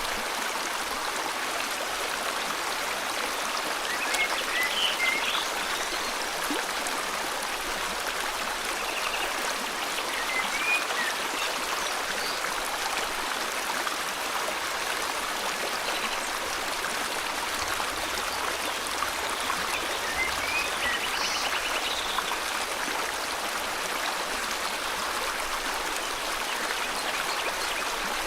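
Steady flow of river water, with a few brief bird chirps now and then.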